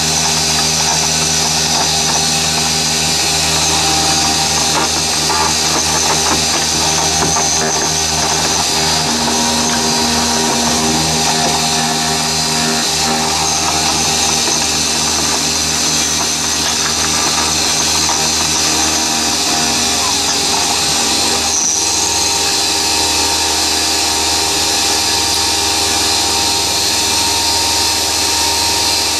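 Mini milling machine running with its milling cutter in the cut: a steady motor whine with the hiss of cutting, the slot packed with swarf. The hum changes a little about 20 seconds in.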